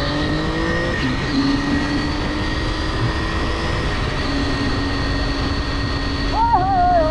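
Triumph Tiger 800 XRx's three-cylinder engine under way on the road: it rises in pitch at the start as it accelerates, then holds a steady note while cruising, over road and wind noise.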